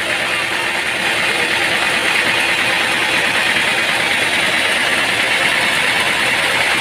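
Machinery running steadily, a loud, even mechanical noise with no clear beat or change.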